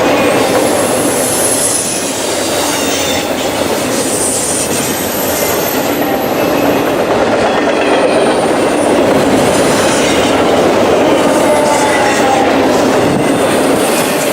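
Freight train cars rolling past close by with a steady loud rumble and wheel clatter over the rail joints, and high-pitched squeals from the wheels that come and go.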